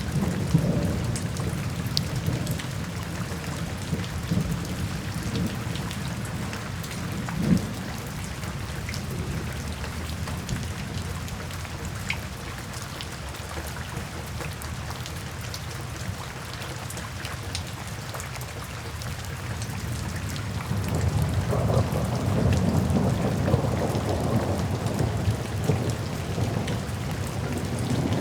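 Steady rain falling with scattered drips, under soft rolling thunder: a low rumble at the start fades, and a longer one swells about two-thirds of the way through.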